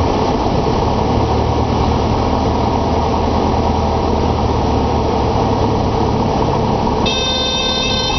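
Steady cockpit drone of a Beechcraft Sundowner's engine and propeller with rushing air. About seven seconds in, the stall warning horn comes on as a steady buzzing tone for just over a second, the sign of the wing nearing the stall in the landing flare.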